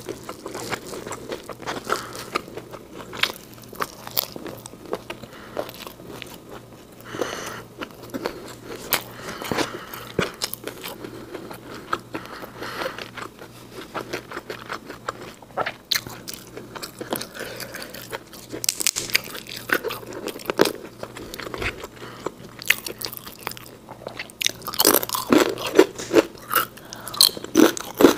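A person chewing crisp fried food close to a microphone, with frequent sharp crunches that grow louder and denser in the last few seconds.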